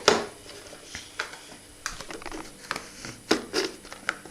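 A small plastic tub being handled and opened: a string of light clicks, taps and rustles.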